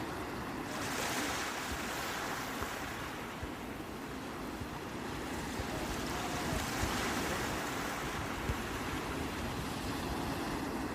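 Sea waves washing onto the shore: a continuous hiss of surf that swells about a second in and again around seven seconds.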